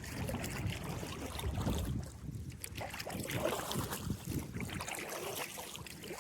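Kayak paddle strokes splashing through river water, uneven and irregular, with wind rumbling on the microphone.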